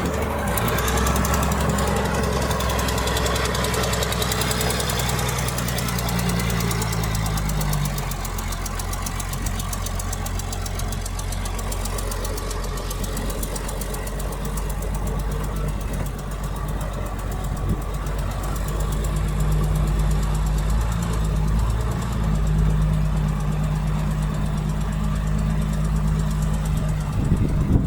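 Heavy diesel engine of earthmoving equipment running under varying load. Its speed drops about eight seconds in and picks up again later on, and there is a short loud knock near the end.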